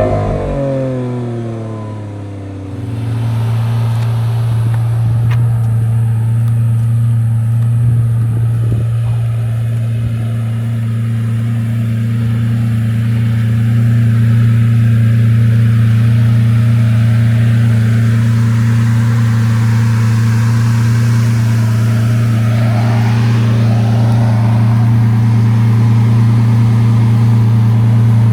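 Lamborghini Aventador LP700-4's 6.5-litre V12 engine, its revs falling away in the first couple of seconds and then running at a steady, even low note.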